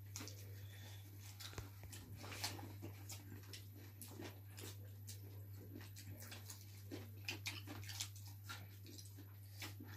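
Close-miked eating: several people chewing cooked chicken and picking it up with their fingers, with many small wet clicks and smacks scattered throughout, over a steady low hum.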